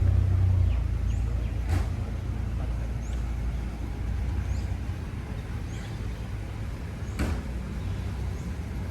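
A car's engine rumbling low, loudest at first and easing down over the first couple of seconds, with two sharp clicks, one about two seconds in and one near the end.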